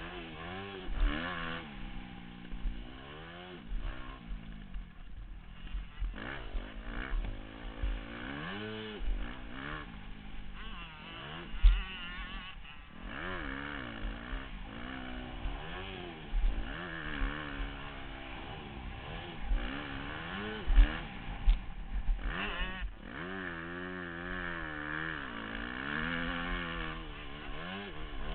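Motocross bike engine revving up and dropping back again and again as the rider opens and closes the throttle. Wind buffets the microphone, and there are a few sharp thuds, the loudest about 12 and 21 seconds in.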